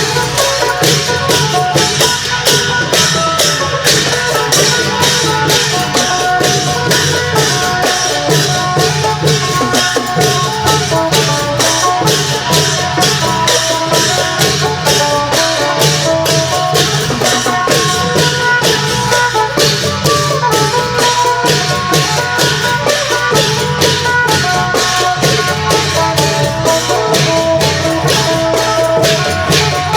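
Isan klong yao long-drum band playing a fast, steady rhythm with jangling cymbals and rattles, over a phin (plucked Isan lute) melody.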